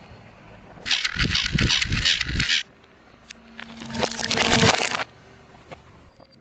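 Objects crunching and crackling as a car tyre rolls over and crushes them, in two bursts: the first with dull thuds under the crackle, the second building up before it stops.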